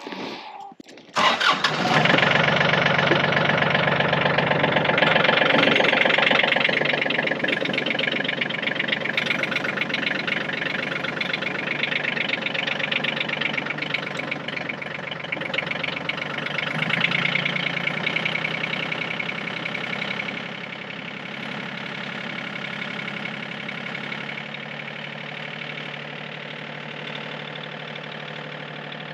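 Yanmar compact tractor's diesel engine starting about a second in, then running steadily; it settles to a quieter idle about twenty seconds in.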